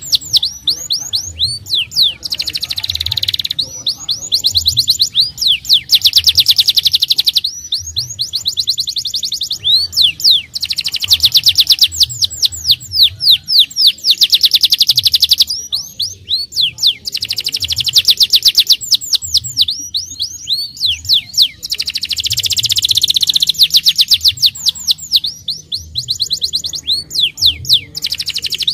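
Domestic canary singing loudly in long, fast rolling trills of rapidly repeated notes, phrase after phrase with short breaks between them.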